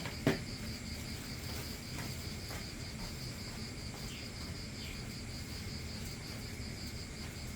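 An insect chirping in a steady high-pitched pulse, about five pulses a second, over other faint insect hum. A single sharp knock comes just after the start.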